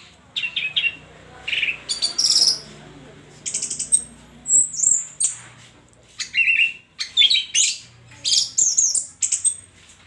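Orange-headed thrush singing loud, varied song phrases of high whistles, slurred notes and rapid trills, delivered in short bursts with brief pauses between them.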